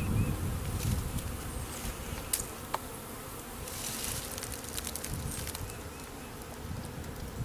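Honeybee swarm buzzing steadily, a dense low hum of many bees clustered together.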